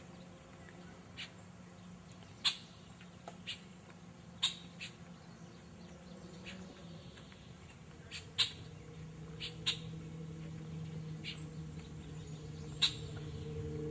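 Short, sharp chirps from small wildlife, one every second or so, over a low steady hum that grows a little louder near the end.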